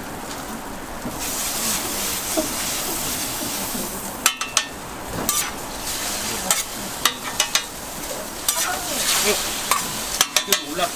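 Food frying on a street vendor's flat-top griddle, a steady sizzle broken by sharp metallic clicks and scrapes of a spatula working the toast. The clicks come in quick clusters, the busiest near the end.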